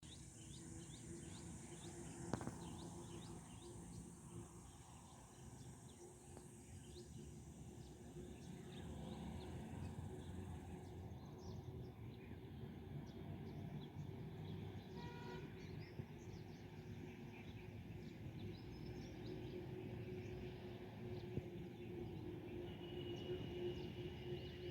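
Outdoor ambience: a steady low rumble with many short, high chirps, and a high hiss that stops about halfway through. About two-thirds of the way in comes a brief horn-like toot.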